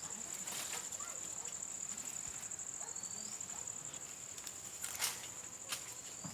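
Insects trilling steadily at a high pitch, with two short sharp clicks about five seconds in.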